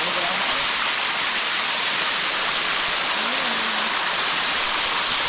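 Water rushing steadily down a waterfall cascade, loud and unbroken, as heard from within the falls.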